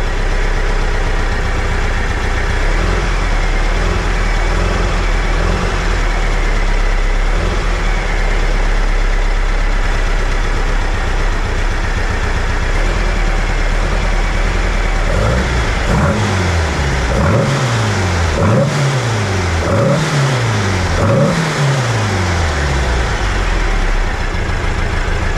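VW Bus air-cooled flat-four engine on dual Weber 48 IDA carburetors running at a steady idle, then revved in about five quick blips a little past halfway before settling back to idle. The carburetors are being synchronized through their throttle linkage.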